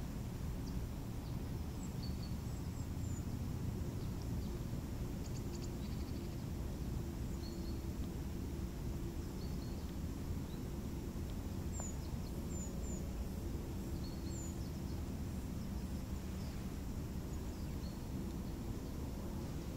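Small birds chirping now and then, short high calls, some falling in pitch, over a steady low outdoor rumble.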